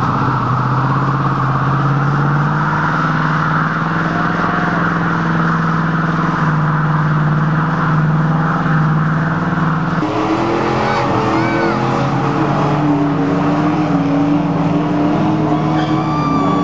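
Engines of hot rods and classic cars running at low revs as the cars cruise slowly past. About ten seconds in the sound changes abruptly to an engine held at high revs with tyres squealing in a burnout.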